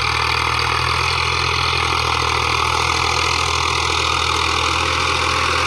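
Tractor engine running steadily, with an even, unchanging note.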